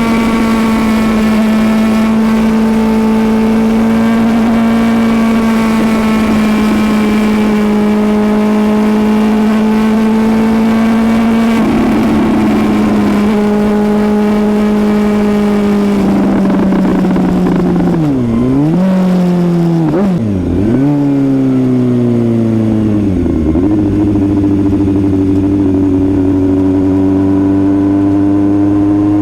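Suzuki GSX-S750's inline-four engine under way at speed. It holds a steady note for most of the time, then the revs dip and swing back up sharply three times about two-thirds through, before settling lower and slowly climbing again.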